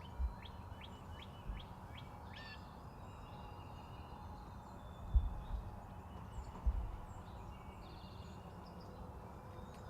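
Songbirds chirping and calling faintly over a steady outdoor background hiss, with quick chirps clustered in the first couple of seconds. A few soft low thumps sound along the way.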